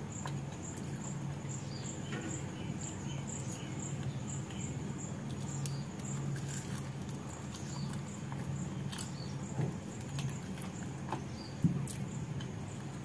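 Close mouth sounds of a person chewing and biting into a samosa: soft chewing with scattered small clicks, and one sharper click near the end. A high chirp repeats about three times a second behind it, dying away after about seven seconds.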